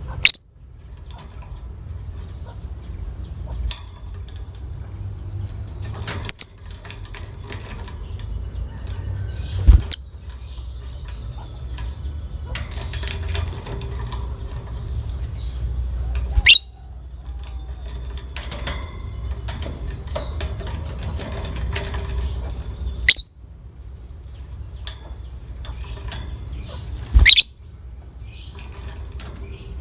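Lovebird giving six loud, short, piercing calls spaced several seconds apart, over a steady high-pitched trill and a low rumble.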